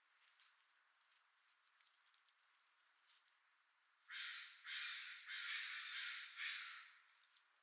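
Four harsh, raspy calls from a corvid in quick succession, starting about four seconds in.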